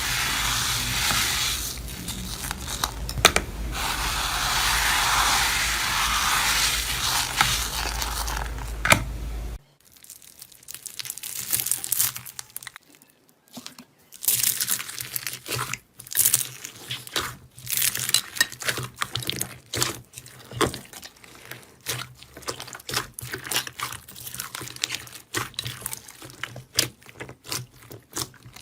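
A steady hiss for about nine and a half seconds, which stops suddenly. Then comes a long, irregular run of sharp crackles and crunches, as of a crunchy material being squeezed and crushed.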